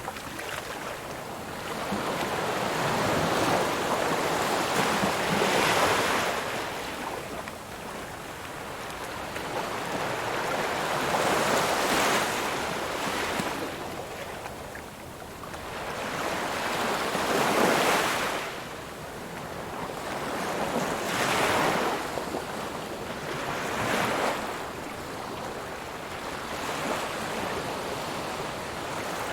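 Ocean surf: waves breaking and washing in, the rush swelling and fading about five times, every few seconds.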